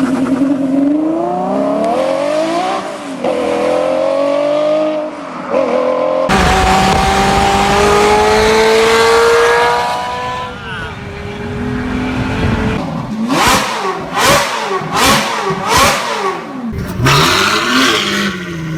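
Ferrari engines with straight-piped exhausts revving and accelerating, across several separate clips. The revs rise and fall, then climb in one long pull that drops off about ten seconds in, followed by a quick run of sharp throttle blips.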